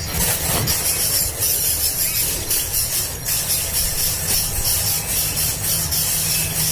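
Young birds begging for food, a constant rapid, raspy hissing chatter.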